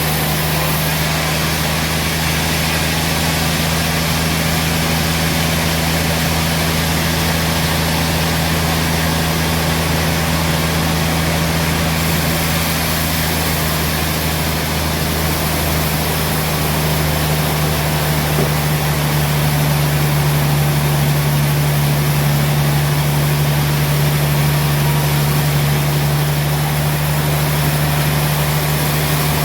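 Sawmill engine running steadily with a constant low hum, growing slightly louder about 18 seconds in.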